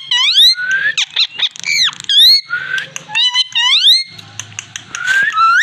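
A parrot giving a quick run of short, squeaky whistling calls, about two a second, most of them sweeping up in pitch and some dipping down.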